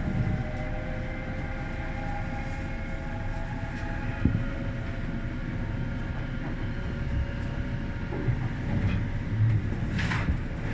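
Electric train running at a station platform: low rumble with a steady motor whine that fades out about halfway through, a knock about four seconds in, and a brief hiss near the end.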